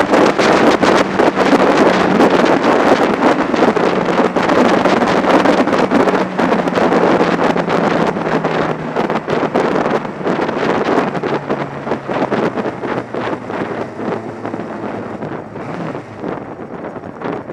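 Heavy wind noise buffeting the microphone of an action camera on a moving sport motorcycle, over the engine's steady note. The note falls slowly in pitch as the bike slows, and everything gets quieter toward the end.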